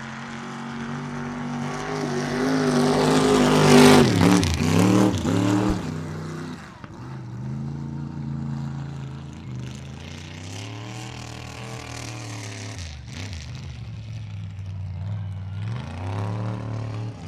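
Mud bog super truck's engine running hard at high revs. It grows louder to a peak about four seconds in as the truck passes close, with the pitch dropping, then runs on with the revs rising and falling.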